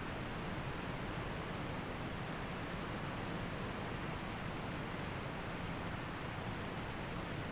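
Waterfall rushing steadily: an even wash of falling water, unchanging, with no breaks or separate events.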